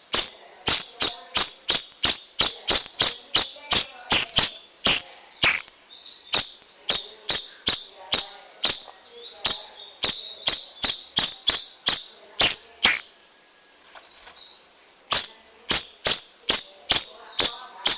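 Cucak rawis bird calling in a rapid series of sharp, high chipping notes, about three a second, breaking off about 13 seconds in and starting again about two seconds later.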